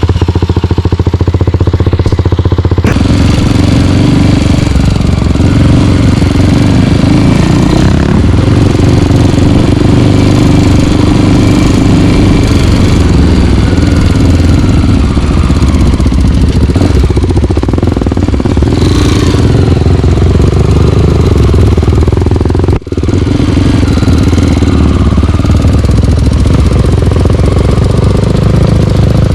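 Single-cylinder four-stroke dirt bike engine running steadily just after an electric start. Its sound changes about three seconds in and dips briefly once later on.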